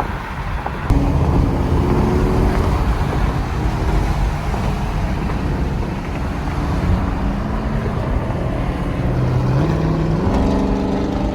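Car engine running with road noise, getting louder about a second in, its pitch stepping up and down and rising near the end.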